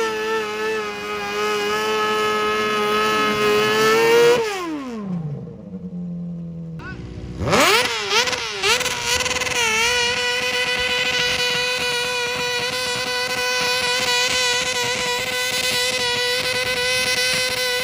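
A modified pulling tractor's engine running at high, steady revs. About four seconds in the throttle is let off and the revs fall away to near idle. They climb sharply again after about three seconds, blip up and down a few times, then hold at high revs.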